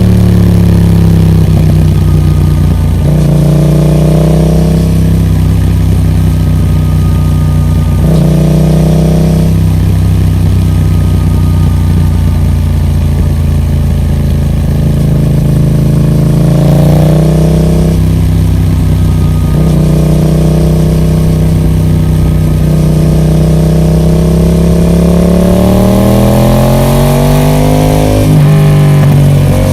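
Yamaha MT-07's parallel-twin engine running through a Roadsitalia carbon aftermarket exhaust while riding. The engine note holds steady in stretches and shifts several times, with a long rising climb in pitch near the end as it accelerates.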